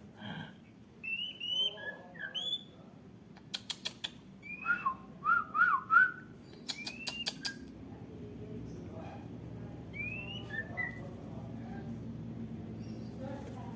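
White-rumped shama (murai batu) singing short, clear whistled phrases: rising glides and quick up-and-down notes, with a couple of clusters of sharp clicks. The song thins out after about eight seconds.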